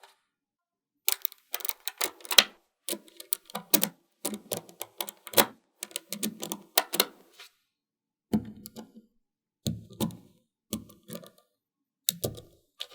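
Small magnetic balls clicking and snapping together in quick, irregular runs, like typing. After a short pause there are fewer clicks with a duller knock to them.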